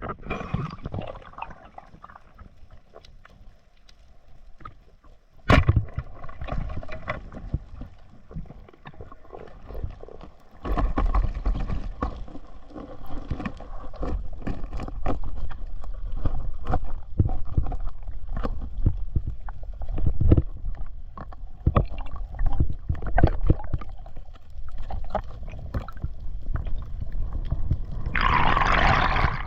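Water sloshing and gurgling around a camera in the water, with a muffled rumble and many irregular knocks and bumps. A sharp click comes about five seconds in, and a louder rush of hissing water comes just before the end.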